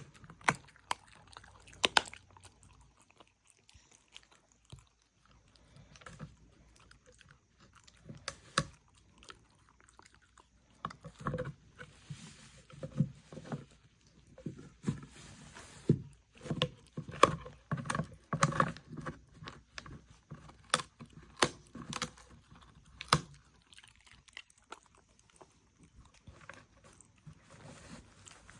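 A dog chewing and crunching its food, with irregular sharp clicks and crunches. These are sparse at first, come thick and fast through the middle stretch, then thin out near the end.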